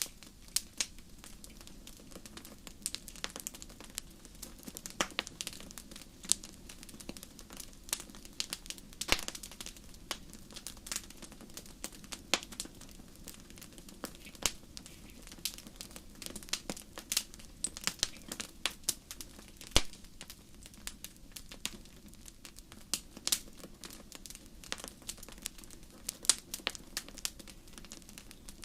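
Campfire crackling: irregular sharp pops and snaps of burning wood over a low steady rush of flame.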